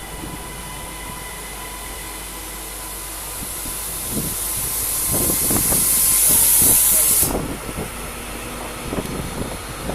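Class 397 electric multiple unit departing a platform: a hiss of air builds over a few seconds and cuts off abruptly, with low clunks and rumbling from the wheels, over a steady high whine.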